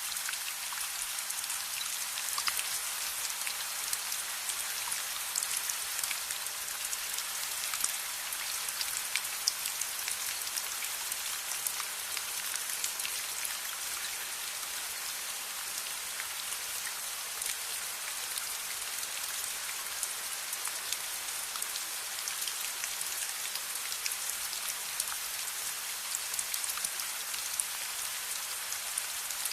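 Steady rain falling, a dense even hiss with many small sharp ticks of drops striking a surface throughout.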